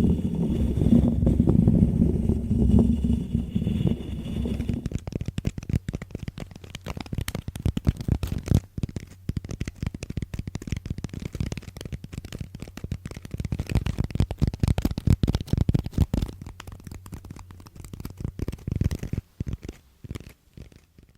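Close-miked ASMR trigger sounds: a low rumbling rub for the first few seconds, then rapid, irregular crackling and tapping that thins out near the end.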